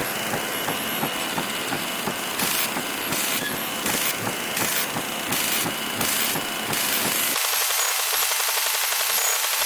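Harsh static and buzzing interference from a television with a poor signal, crackling throughout and pulsing about twice a second in the middle. About three-quarters of the way through, the low rumble drops out and it thins to a steady hiss.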